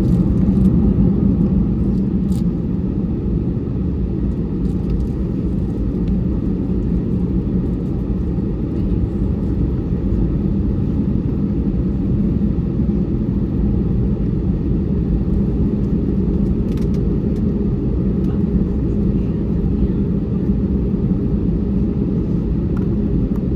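Steady low rumble inside an Airbus A320 cabin on the ground before takeoff, heard from a window seat, with a few faint ticks now and then.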